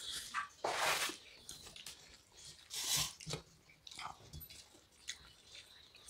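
Close mouth sounds of people eating fish head curry with rice by hand: chewing, lip smacks and wet sucking noises, with several louder swells about a second in and about three seconds in.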